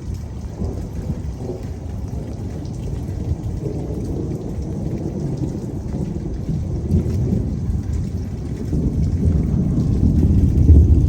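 Thunder rumbling over steady rain, the rumble growing louder near the end.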